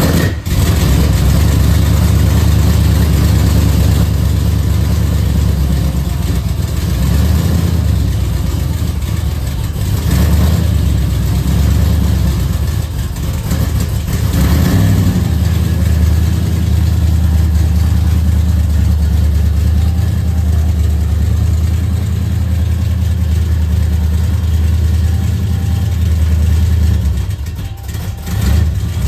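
1978 Chrysler New Yorker's V8 engine running steadily at idle, with a few brief changes in level.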